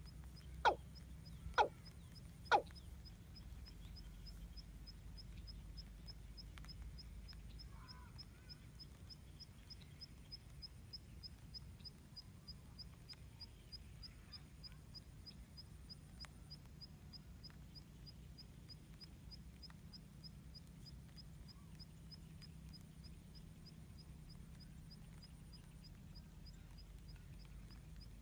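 Three short, loud bird calls about a second apart, then a faint regular high ticking over a low outdoor rumble.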